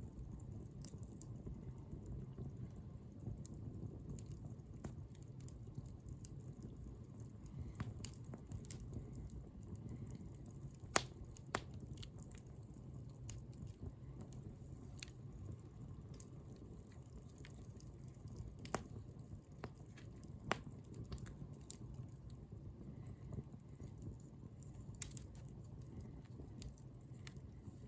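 Wood bonfire burning, crackling with irregular sharp pops over a steady low rumble of the flames; a few louder pops stand out around the middle.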